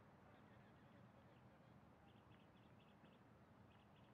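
Near silence, with faint, quick, high chirps of small birds in short clusters from about two seconds in.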